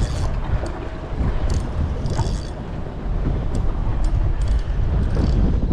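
Heavy wind buffeting the microphone on an open fishing boat, a rumbling, gusting roar with a few brief hissing bursts over it.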